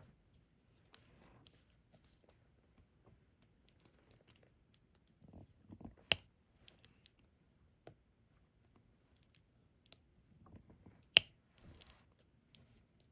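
Diamond painting at work: soft rustling and small clicks of the drill pen and resin drills, with two sharp, louder clicks about six and eleven seconds in.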